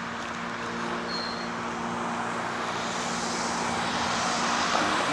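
Steady engine hum with a rushing noise that swells over the last two seconds, as of a motor vehicle drawing near; a short high chirp about a second in.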